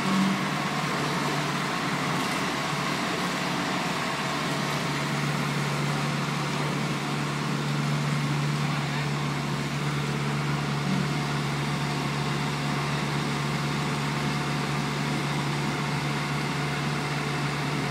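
Engine of a slurry seal paving truck running steadily: a constant low hum over a broad mechanical noise.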